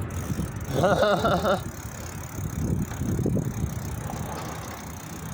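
Riding noise of a bicycle on the move: a steady low rumble of tyres and wind on the microphone. A short, wavering pitched sound comes about a second in, and a fainter one about three seconds in.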